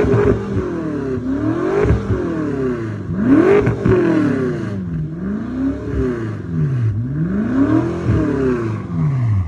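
BMW F10 M5's twin-turbo V8, with its mufflers cut off, being revved up and down over and over, its pitch rising and falling about every one and a half to two seconds.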